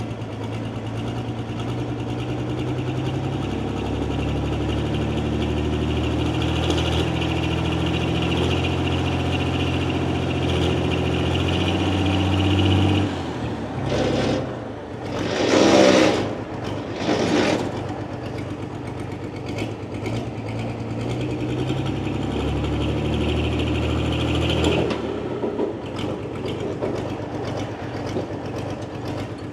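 12-valve Cummins diesel in a pulling tractor running, its revs climbing in steps for about thirteen seconds before dropping away. Three short loud surges follow, then the engine revs up again for a few seconds and settles back to a lower steady run.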